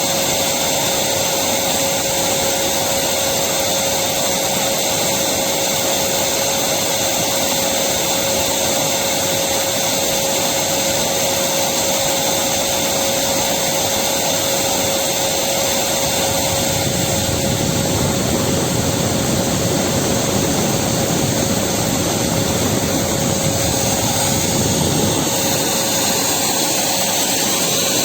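Electric vacuum cleaner running steadily, a continuous whooshing hum with a steady whine.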